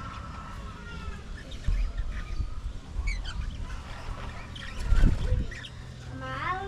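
A flock of budgerigars chirping and chattering with short rising and falling calls. Low rumbles come in about two seconds in and again, loudest, about five seconds in.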